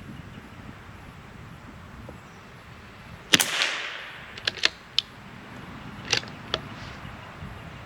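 A single shot from a CZ 457 MTR .22 LR bolt-action rifle firing Lapua Center X, a little over three seconds in, with a short ringing tail. About a second later come several sharp clicks of the bolt being worked to eject the case and chamber the next round.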